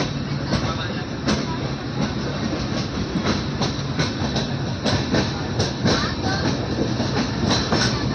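Passenger train running, heard from inside a sleeper coach: a steady rumble with the wheels clicking over rail joints, the clicks coming more often in the second half.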